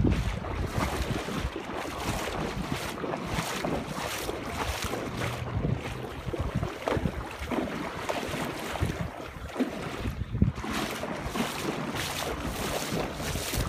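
Legs wading through deep floodwater, the water sloshing and swishing unevenly with each stride, with wind buffeting the microphone.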